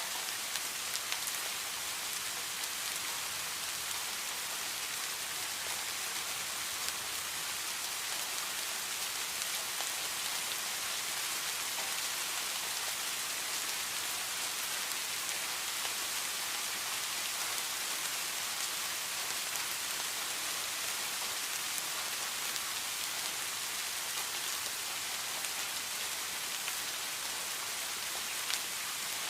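Steady heavy rain falling, a dense even hiss with scattered individual drops ticking.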